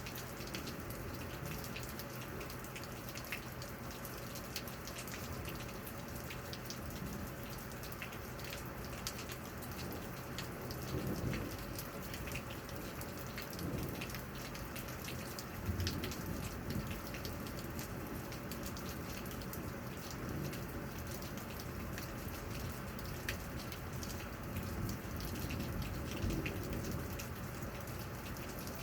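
Steady rain during a thunderstorm, with many individual drops tapping. Low rumbles of thunder swell up a few times.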